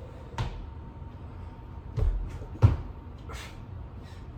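Thuds of a person's hands and feet hitting the floor during a burpee with push-ups, a few separate impacts with the loudest about two and a half seconds in.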